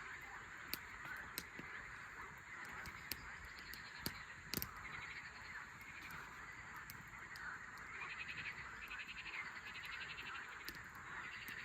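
Animal calls over a steady hiss: rapid pulsed trills that repeat, strongest near the end, with scattered sharp clicks.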